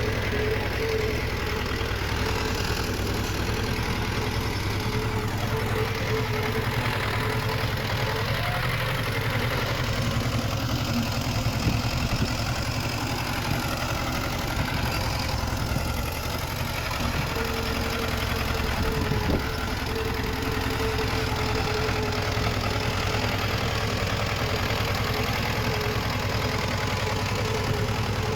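Heavy-machinery diesel engine running steadily at low revs, a constant rumble with a faint steady higher tone over it.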